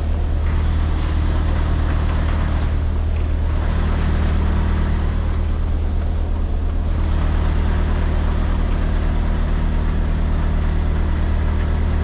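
Heavy goods vehicle's diesel engine running steadily at low revs as the lorry creeps through a slow manoeuvre.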